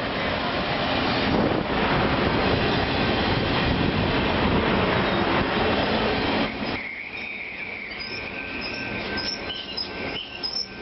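Caltrain passenger train of gallery cars passing close by, a loud steady rumble of wheels on the rails. About two-thirds in the noise drops suddenly as the last car goes by, leaving a fainter high squeal from the rails, with a few bird chirps near the end.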